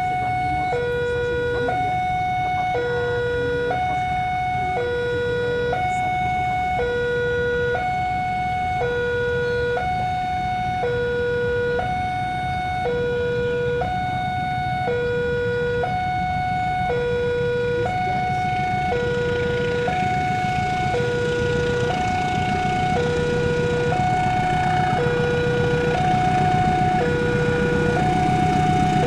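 Railway level-crossing warning alarm sounding a steady two-tone hi-lo signal, each tone held about a second. A low engine hum grows louder over the last few seconds as a train approaches.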